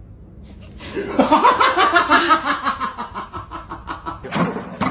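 A person laughing in a rapid run of bursts starting about a second in, loudest at first and tailing off, with a new burst of sound near the end.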